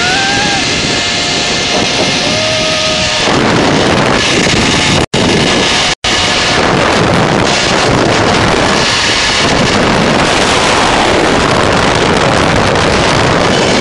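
Loud wind rushing over the microphone of a rider speeding along a long zipline. A held high tone rises at the start and lasts about three seconds. The sound cuts out for an instant twice near the middle.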